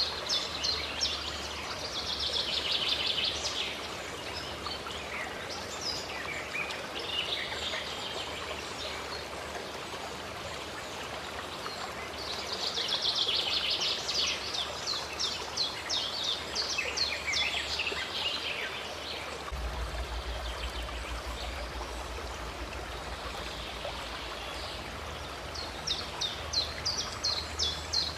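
Running stream water flowing steadily, with songbirds singing over it in repeated bursts of rapid chirps.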